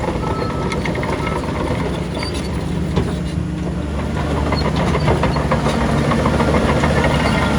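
Heavy diesel earthmoving machinery running, its engine steady underneath with a busy metallic clatter of clicks and knocks; the engine gets somewhat louder about five seconds in.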